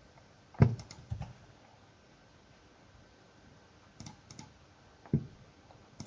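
A few scattered computer keystrokes: a small cluster of clicks within the first second or so, another pair around four seconds in, and single clicks just after five seconds and near the end.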